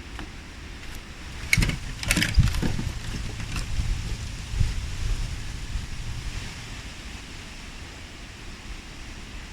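Wind rushing over the microphone with a low rumble, and a few sharp knocks about one and a half to two and a half seconds in.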